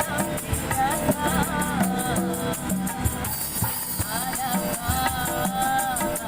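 Street busker's song: a voice singing a melody over the steady rhythmic shaking of a rattle or shaker.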